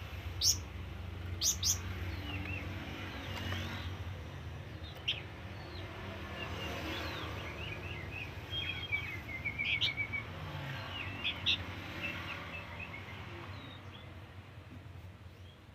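A flamboyan songbird calling in short, sharp chirps and quick little trills, over a steady low hum that fades toward the end.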